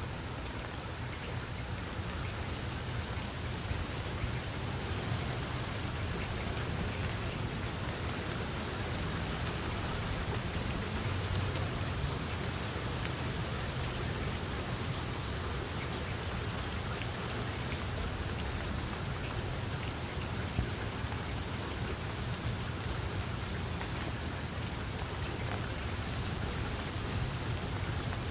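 Steady rain falling, with a constant hiss and scattered individual drop ticks over a low rumble.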